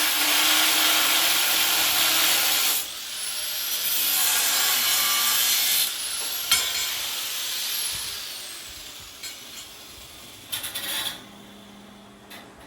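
A power tool cuts metal stock for the smoker's racks, with a brief break near three seconds. The cutting stops about six seconds in, and the motor whines down over the next few seconds. A few short clatters follow near the end.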